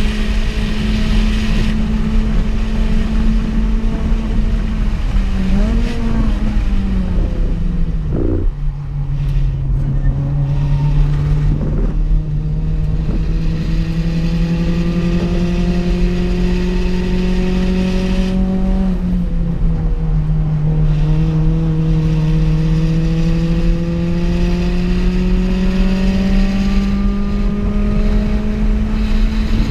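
In-car sound of a Honda Fit race car's 1.5-litre four-cylinder engine under hard acceleration. The note falls and wavers as the car slows, with a knock about eight seconds in, then climbs slowly through two long pulls split by a sudden drop in pitch about two-thirds through, an upshift.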